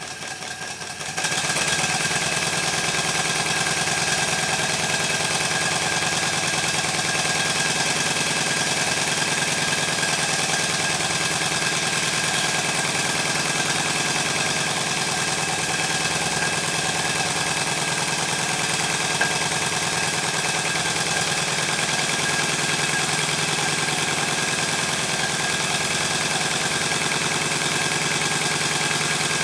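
Model traction engine running steadily, its exhaust beating in a rapid, even rhythm over a constant hiss. The sound comes in about a second in and then holds level.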